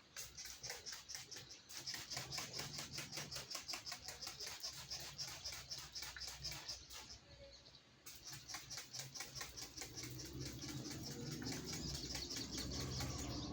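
A newly caught sogok ontong (sogon) bird makes a rapid run of sharp, evenly spaced sounds, about six a second. They break off for about a second around seven seconds in, then start again. A low hum builds beneath them in the second half.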